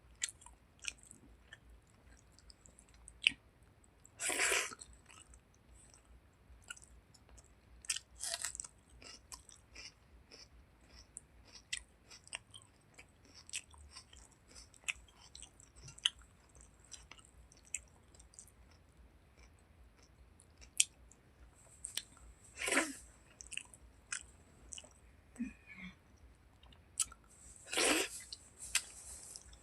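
Close-up chewing and wet mouth sounds of someone eating chicken skin curry with rice: many small smacking clicks throughout and four longer, louder mouth noises.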